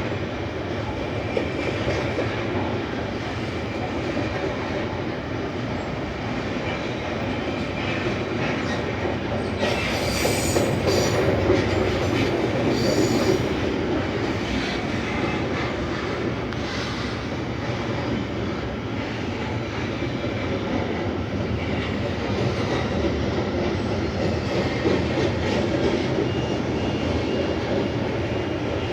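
Freight train of flat wagons rolling past steadily, wheels rumbling and clicking over the rails with thin wheel squeal, and a few sharper high squeals about ten to thirteen seconds in.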